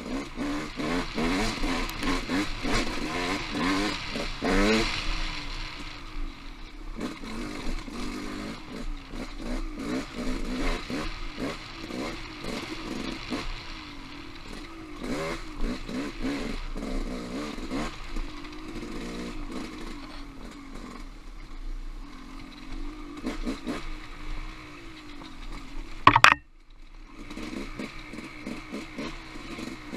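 Off-road motorcycle engine revving up and down as the bike is ridden over rough trail, with clattering throughout. About 26 seconds in a single loud sharp knock is followed by a brief gap before the engine is heard again.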